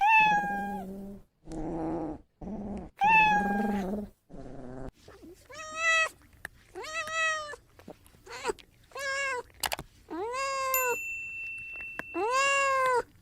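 A domestic cat meowing about ten times in a row. The later meows are clear and drawn-out, rising and then falling in pitch.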